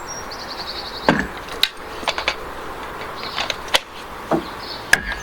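Irregular knocks on timber, about seven sharp strikes spaced unevenly over several seconds, with birds chirping between them.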